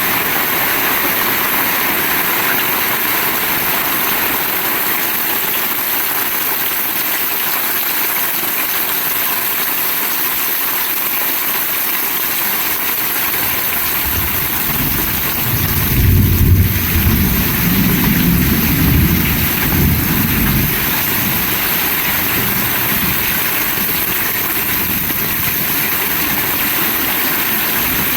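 Heavy rain falling steadily. About halfway through a low rumble rises, swells for a few seconds and fades away.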